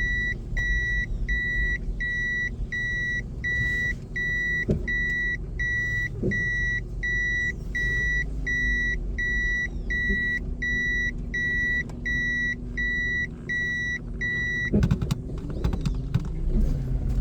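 Car's reversing beeper sounding in even beeps about twice a second while the car backs up to turn around, over the low hum of the idling engine. The beeping stops about fifteen seconds in, followed by a few knocks.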